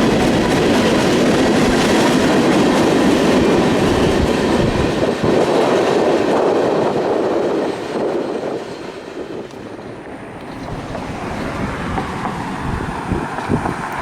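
Freight train cars rolling past with wheels clacking over the rails; the sound drops away about eight seconds in as the train clears, leaving gusty wind buffeting the microphone.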